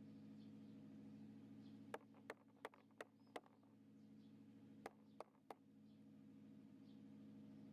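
Near silence: a faint steady low hum, with light sharp clicks, five of them between about two and three and a half seconds in and three more around five seconds in.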